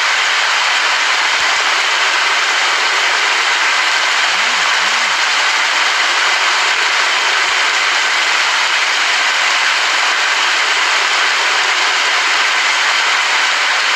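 Steady heavy rain falling, a dense, even hiss that does not let up.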